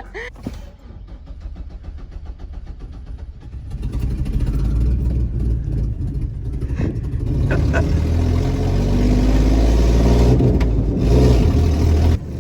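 Vehicle engine running, then getting louder about four seconds in as it accelerates, its pitch rising, with a heavy low rumble.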